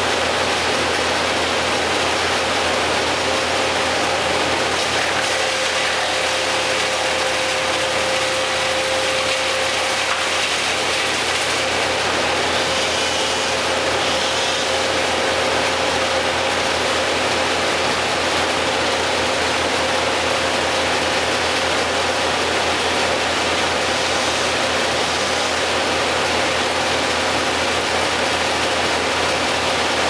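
Steady machine noise, an engine running evenly without revving, with a faint held tone throughout.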